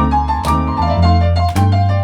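Piano playing a blues instrumental chorus over a steady bass line.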